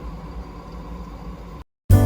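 LG front-load washing machine running empty on a cleaning cycle as water fills the drum: a steady hum and rush of water. It cuts off suddenly a little over one and a half seconds in, and a loud sustained tone of several pitches starts near the end.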